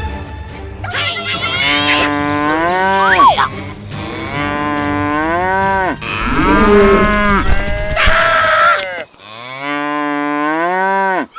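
Cattle mooing: four long moos in a row, each rising in pitch, holding, then falling away.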